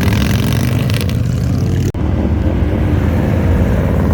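Vehicle engines running with a deep, steady exhaust rumble, broken by a sudden brief drop about two seconds in.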